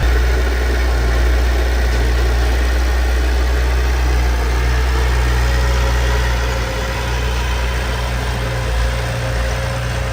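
Heavy diesel engine of a bulldozer or dump truck running steadily with a deep rumble, easing slightly a little past halfway.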